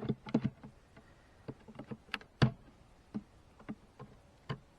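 Scattered clicks and knocks of wooden beehive frames being handled and knocked against the hive box, the loudest knock about two and a half seconds in.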